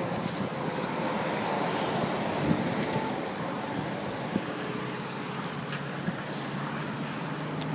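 Steady road-traffic noise from highway vehicles, with wind buffeting the microphone.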